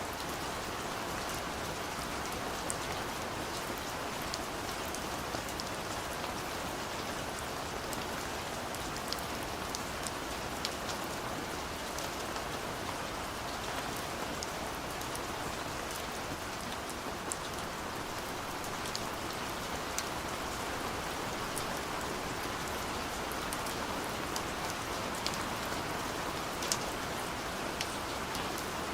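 Steady rain falling, an even hiss with many separate drops ticking sharply on a surface throughout.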